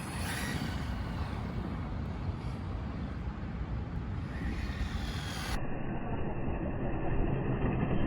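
A 1:10 brushless RC drift car running: a steady rumbling noise that slowly grows louder, with a faint steady whine over the last couple of seconds.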